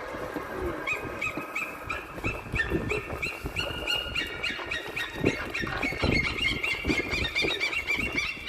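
Mute swan cygnets peeping: a steady run of short, high, upward-hooked peeps, about three a second, starting about a second in, over a mix of low splashing and scuffling from the feeding flock.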